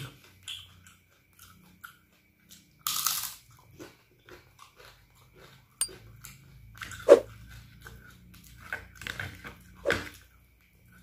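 Close-miked chewing and wet mouth sounds of someone eating fried instant noodles, with small clicks throughout, a short loud hissing burst about three seconds in, and two sharper louder sounds later on.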